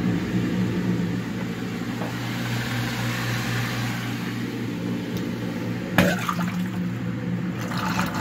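Kitchen garbage disposal running with a steady hum while water drains down the sink, the clog freshly cleared; a single knock about six seconds in.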